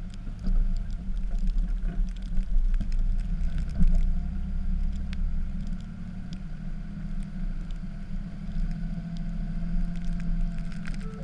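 Dodge pickup's Cummins straight-six turbodiesel running steadily while plowing snow, with scattered light clicks and knocks.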